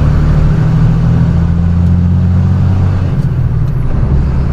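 Flatbed straight truck's diesel engine running under way, a steady low drone that shifts slightly in pitch about three seconds in.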